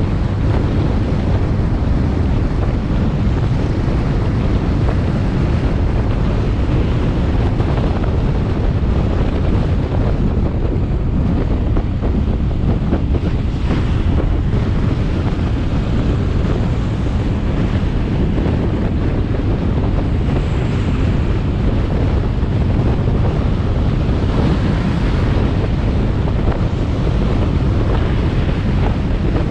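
Steady wind rushing over the microphone of a moving motorcycle, with the motorbike's engine and road noise underneath.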